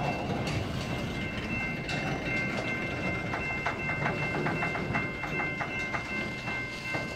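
CN freight train cars rolling past with a continuous rumble and wheels clicking over rail joints, the clicks coming in a quick regular run in the middle. A steady high-pitched ringing tone holds over it.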